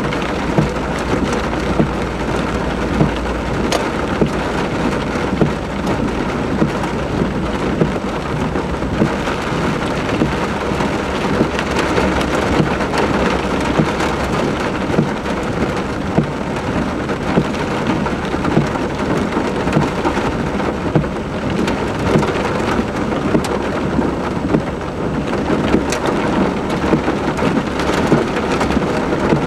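Heavy rain pouring down steadily, with frequent sharp little impacts of drops striking close by.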